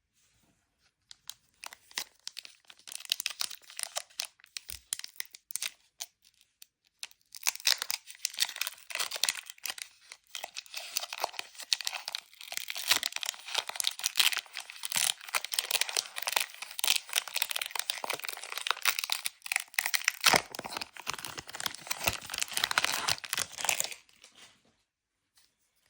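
Crinkly packaging being torn open and handled: a dense run of crackling and tearing that starts sparse, thickens about 7 seconds in and stops near the end.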